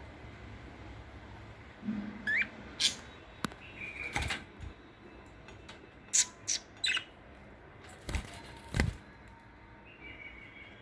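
Pet budgerigar giving scattered short chirps and sharp calls, with a few brief thumps in between, the loudest about eight to nine seconds in.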